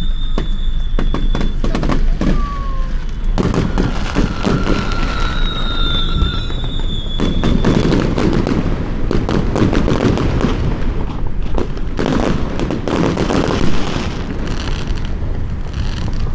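Many fireworks going off at once: a dense, continuous run of bangs, booms and crackles, thickest from about three seconds in.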